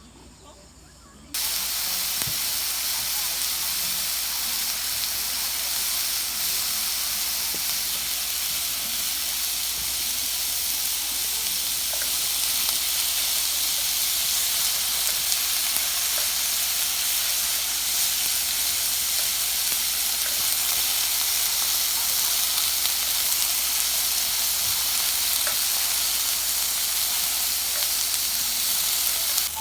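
Meat sizzling on a barbecue grill: a steady hiss that starts suddenly about a second in, with occasional faint crackles.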